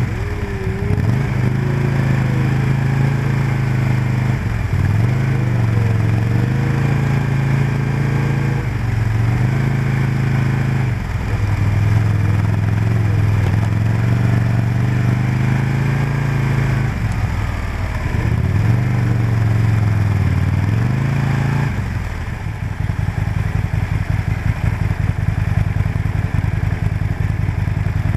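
Aprilia RSV-R sport bike engine running at low revs while the bike rolls slowly, its pitch dipping and picking up again several times with the throttle. About 22 seconds in it settles into a lower, pulsing note close to idle.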